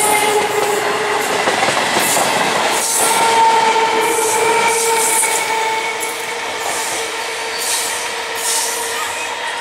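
Indian Railways EMU local train running close past, with a steady high whine and a regular clatter of wheels over the rails about once a second.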